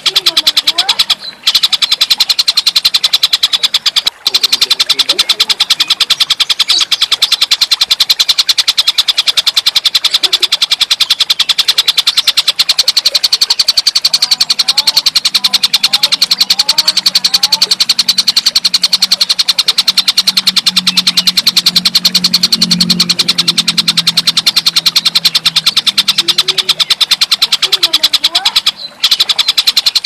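Tengkek buto calling in a continuous, fast, even rattling trill, as played on a masteran bird-song recording. It breaks off briefly about a second in, again around four seconds, and near the end.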